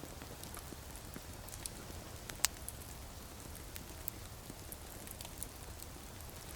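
Wood fire crackling with scattered sharp pops and snaps, one much louder pop about two and a half seconds in.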